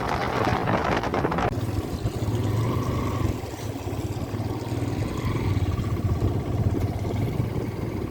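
Motorcycle engine running steadily while riding, with wind noise on the microphone, heaviest in the first second or so.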